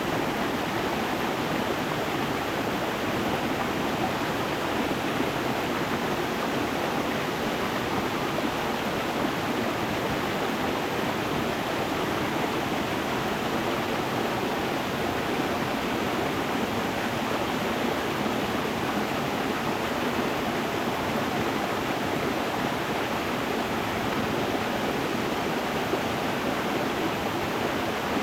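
Stream water flowing over stones: a steady, unbroken rushing.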